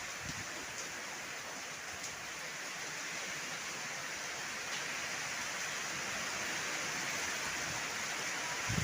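Heavy rain falling steadily, an even hiss with a few faint drip ticks.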